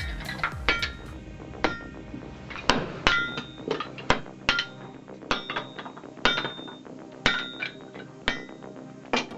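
Sledgehammer blows on a simple homemade firewood splitter, struck again and again at roughly two a second, each a sharp clank with a short metallic ring.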